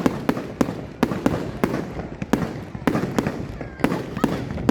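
Fireworks show going off: an irregular rapid run of sharp bangs and cracks, about three a second, each with a short echo, over a continuous low rumble.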